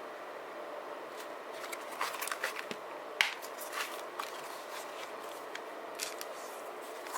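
Paper and stationery being handled: a run of light rustles and clicks over a steady hiss, the sharpest click about three seconds in, and a few more a little before the end.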